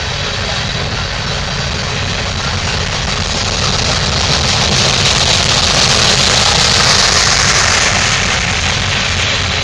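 Loaded coal hopper cars rolling past: a steady rumble and rush of steel wheels on rail that grows louder about halfway through, then eases slightly near the end.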